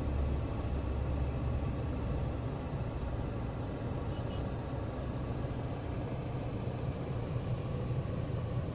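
Ashok Leyland 3118 twin-steer multi-axle diesel truck running, a steady low rumble.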